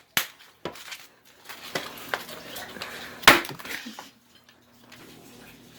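Sharp clicks and light clinks of small hard objects being handled, the loudest a little after three seconds in, then only a faint steady hum.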